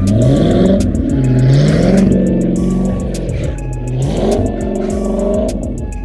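Car engine revving hard in repeated pulls, its pitch climbing three times and dropping between them, as the car is driven sliding in snow.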